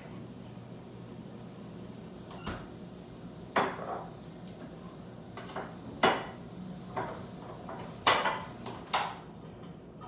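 A series of about six sharp clinks and knocks of hard objects, irregularly spaced, the loudest around the middle and near the end, over a steady low hum.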